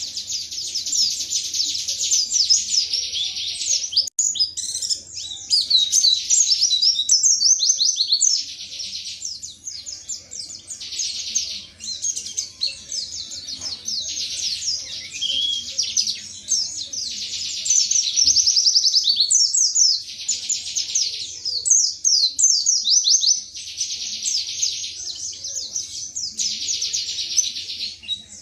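Pleci (white-eye) singing a long run of rapid, high-pitched chattering song in bouts of several seconds, with only brief pauses between them. This is the fast burst-style singing that keepers call "tembakan".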